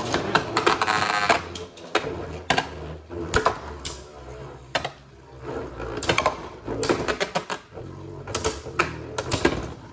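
Two Beyblade Burst spinning tops whirring in a plastic stadium and clashing again and again, giving a run of sharp clicks and knocks. About a second in there is a brief rattling scrape.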